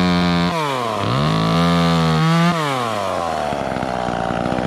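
Two-stroke chainsaw revved in bursts: it climbs to a high, steady speed, drops back about half a second in, revs up and holds again, then falls to a lower, uneven speed about halfway through.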